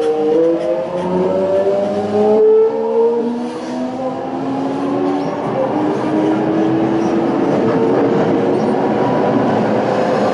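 Toei 5300 series train's Hitachi-built Mitsubishi GTO-VVVF inverter and traction motors whining as the train accelerates: several tones climb in pitch, jumping in steps about two and a half seconds in. Wheel-on-rail rolling noise builds underneath.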